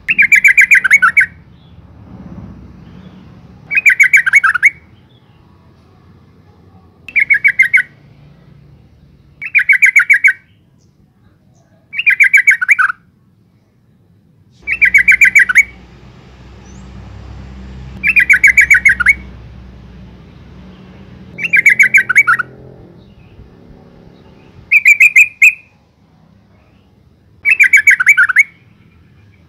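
Female yellow-vented bulbul repeating a short, rapid chattering call, about one every two to three seconds, ten times in all. Each call lasts about a second.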